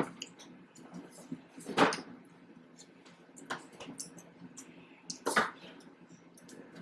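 Close-miked eating: two loud crunchy bites into fried egg rolls, about two seconds and five seconds in, with small clicking chewing and mouth noises between.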